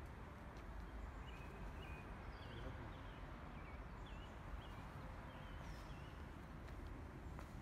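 A small bird chirping over and over, short high calls one or two a second, over a steady low outdoor rumble.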